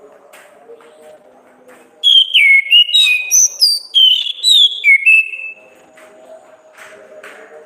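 An orange-headed thrush sings one loud phrase, about three and a half seconds long, of clear whistled notes that glide up and down, starting about two seconds in.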